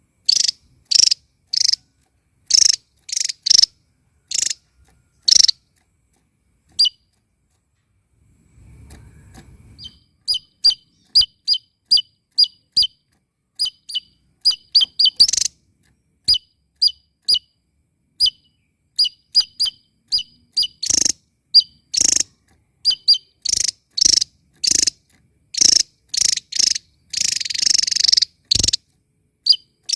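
A small songbird singing a string of loud, short, high-pitched chirps. There is a pause a few seconds in, then a quicker run of paired notes that grows denser toward the end.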